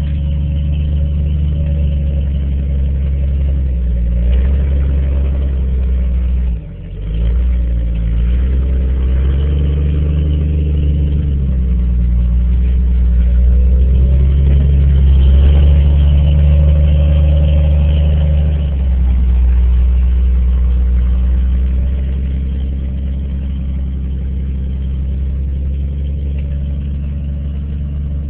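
1995 Jeep Grand Cherokee's engine running under load as the Jeep crawls up a rutted dirt trail, its note rising and falling with the throttle and louder through the middle stretch. The engine drops off sharply for a moment about seven seconds in, then picks back up.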